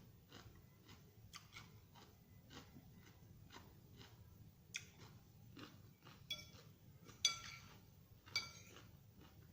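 Eating sounds: faint steady chewing of raw salad vegetables about twice a second, then a fork or spoon clinking against the plate or bowl four times, each clink ringing briefly, the loudest about two-thirds of the way through.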